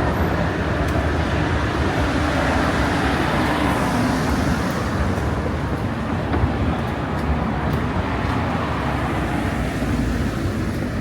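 Steady road traffic noise on a city street.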